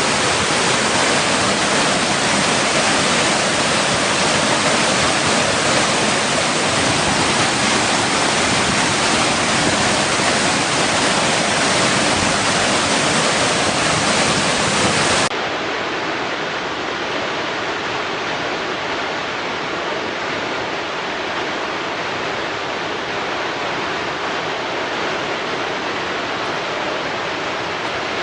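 Water rushing against rocks in a steady, dense rush. About halfway through it cuts abruptly to a quieter, duller rush.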